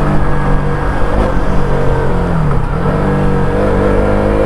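KTM RC's single-cylinder motorcycle engine running under throttle. Its pitch drops about two and a half seconds in, climbs again, then rises steadily near the end.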